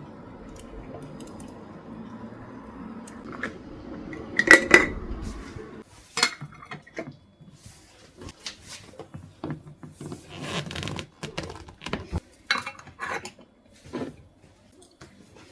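Dishes and cutlery clinking and knocking as they are handled. There is a steady low hiss for about the first six seconds, a loud ringing clink about four and a half seconds in, and then scattered lighter clinks and knocks.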